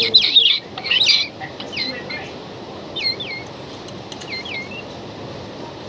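Kingfisher chick calling: groups of short, sharp chirps that sweep downward in pitch, loudest in the first second, then coming more sparsely and more faintly until they stop about four and a half seconds in.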